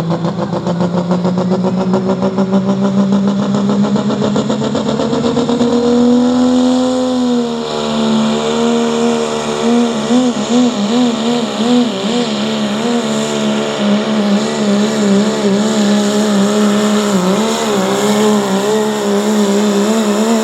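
Diesel Dodge Ram pickup pulling a weight-transfer sled under full power. The engine note climbs steadily for about seven seconds, then surges up and down rapidly for the rest of the run, and stops abruptly at the very end.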